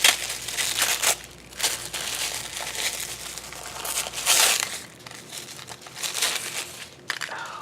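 Packaging crinkling as craft items are handled and unwrapped, in irregular rustling bursts with the loudest one about four seconds in.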